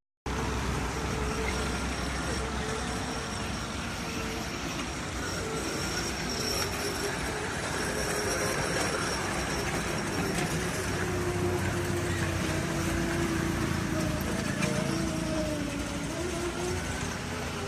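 Busy fairground ambience: a steady low mechanical rumble, as of a ride's motor or generator, under crowd chatter, with faint wavering tones drifting in and out.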